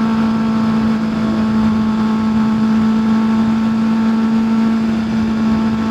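Kawasaki ZX-6R 636 inline-four engine running at a steady pitch while the motorcycle cruises, with a rushing noise underneath.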